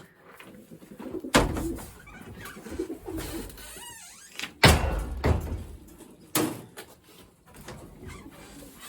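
Racing pigeons cooing, with three sharp knocks about a second and a half, four and a half, and six and a half seconds in, the middle one loudest.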